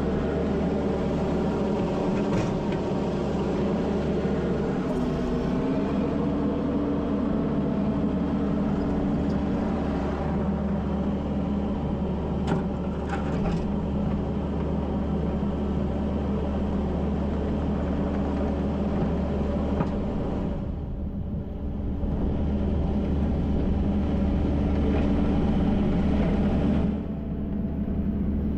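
Kubota SVL75-2 compact track loader's diesel engine running steadily under working load, with a few sharp knocks near the start and about halfway through. The engine note drops briefly about twenty seconds in and again near the end.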